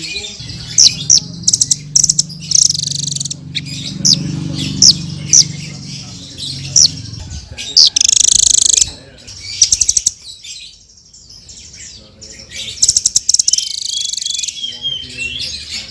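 Blue-crowned hanging parrots (srindit) calling: rapid, shrill high-pitched chirps and short buzzy trills, with a brief lull a little past the middle before the chirping picks up again.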